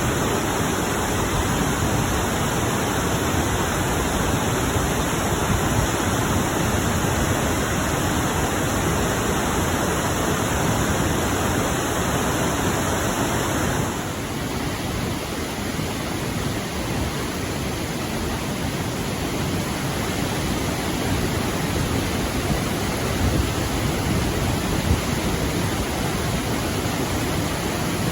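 Steady rushing roar of a waterfall. About halfway through it changes abruptly to a slightly quieter, duller rush.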